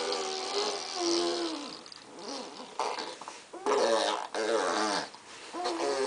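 Baby making wordless vocal noises: short runs of high, wavering sounds that rise and fall in pitch, with brief pauses between them.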